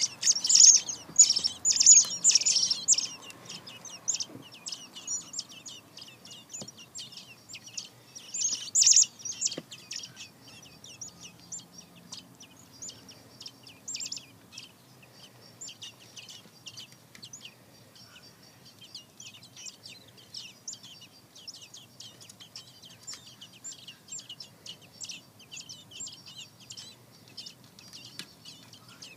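A bird giving rapid, high-pitched chirps, loudest in the first three seconds and again about nine seconds in, with quieter chirping going on throughout.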